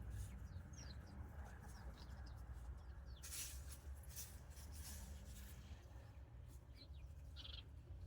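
Faint, scattered high chirps of small birds, with a couple of brief rustles about three and a half and four and a half seconds in, over a low steady background rumble.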